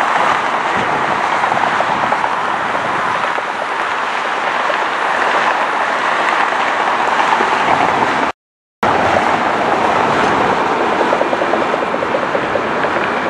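Jet airliner engines roaring steadily as an aircraft passes close by, cut off by a half-second gap of silence about eight seconds in before the roar resumes.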